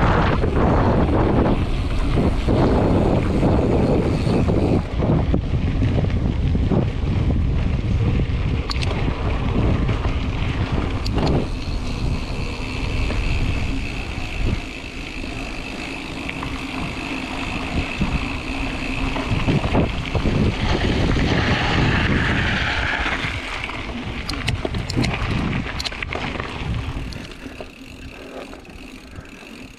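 Wind buffeting the microphone over the rumble of mountain bike tyres on a dirt trail, with scattered clicks and rattles from the bike; the noise eases near the end.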